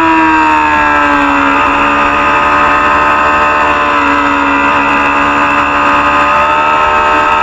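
Small-displacement Supersport 300 racing motorcycle engine running hard at high revs, with a jump in pitch at the start that then sinks, a step about a second and a half in, and a slow rise in pitch after that.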